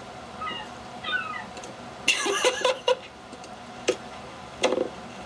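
Seagull calling: short falling mewing calls, then a louder, harsher cry about two seconds in, followed by a few sharp clicks.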